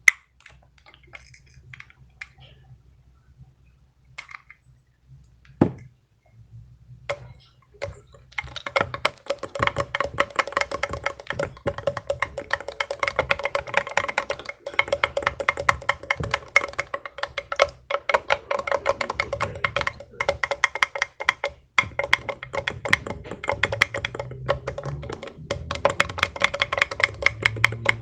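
Plastic fidget toy being worked: a few scattered clicks, then from about eight seconds in a dense, rapid run of clicking and rattling over a steady ringing tone.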